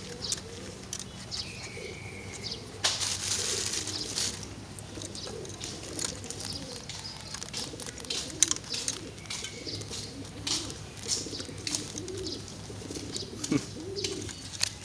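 Domestic pigeons cooing repeatedly in low, rounded calls, with a burst of wing flapping about three seconds in and scattered sharp clicks.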